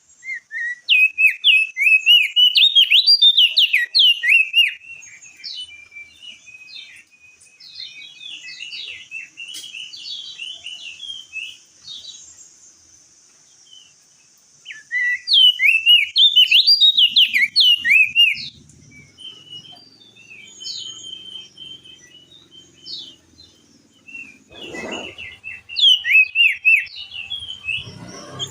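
Crested darkeye (opior jambul) singing: three loud bursts of fast, chattering warbled song near the start, about halfway and near the end, with softer scattered notes between them.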